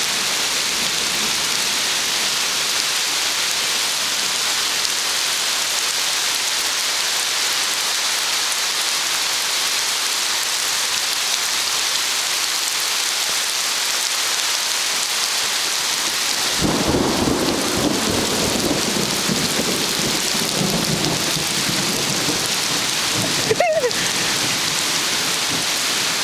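Torrential rain pouring down in a steady, even hiss. About two-thirds of the way through, a low rumble of thunder sets in and carries on under the rain.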